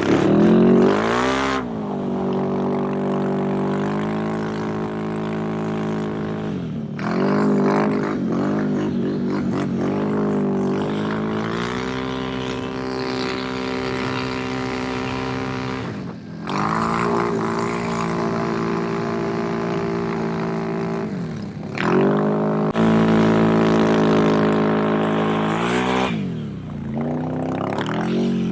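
Can-Am Renegade ATV engine running hard under throttle through snow, holding steady revs. About five times the revs drop briefly as the throttle is let off, then climb back.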